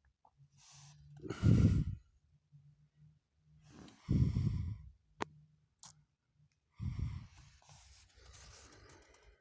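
Three breaths or sighs blown out close to the microphone, the first about a second in, the next two about three seconds apart, with a few faint clicks between them.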